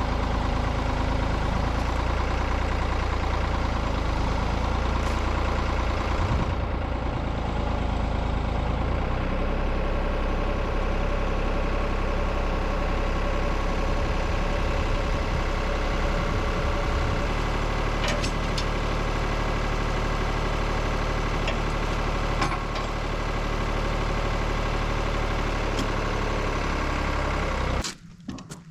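Tractor engine running steadily as it lifts and holds a heavy log, then cutting off suddenly near the end.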